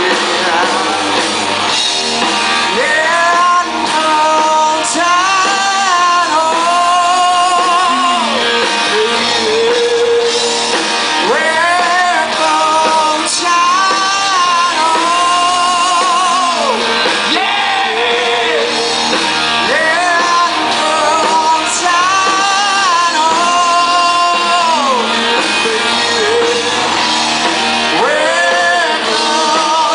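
Live rock band playing a song, with a lead melody that bends and wavers in pitch over the guitars and drums.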